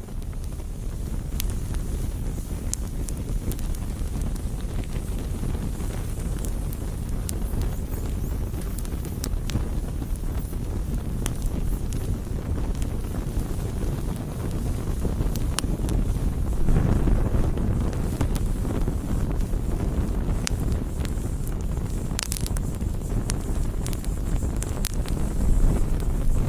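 Wood bonfire crackling, with sharp pops scattered through a steady low roar that swells briefly about two-thirds of the way in.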